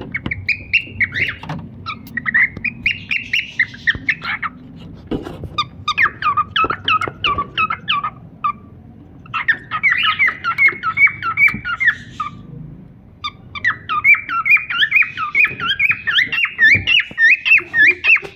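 Pet cockatiels calling in rapid runs of short, chirpy notes, in several bouts of a few seconds each with brief pauses between.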